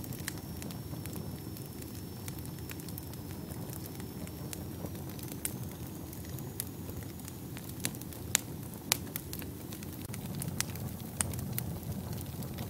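Wood fire burning in a fireplace: a steady low roar of flames with scattered sharp crackles and pops, two louder pops about two-thirds of the way through.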